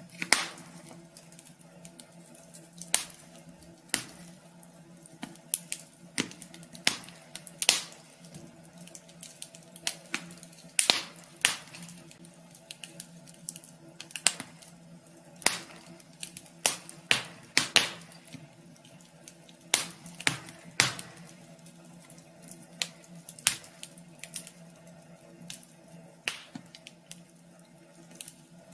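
Wood fire crackling in a wood stove: irregular sharp pops and snaps, some loud, over a faint steady hum.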